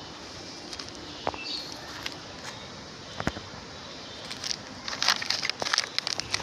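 Crackling and rustling of dry litter, with scattered sharp clicks that bunch up thickly in the last second and a half.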